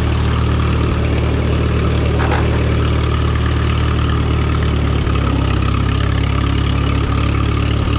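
1954 Minneapolis Moline UBU tractor's four-cylinder engine running steadily, freshly tuned with new plugs and points and the timing reset.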